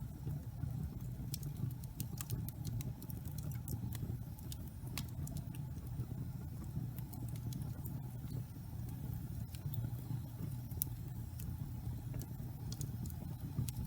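Wood logs burning in a fireplace: a steady low rumble of the flames with scattered sharp crackles and pops at irregular moments.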